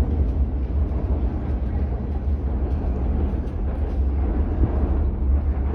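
Steady low rumble with an even hiss over it: the background noise of an underground subway platform.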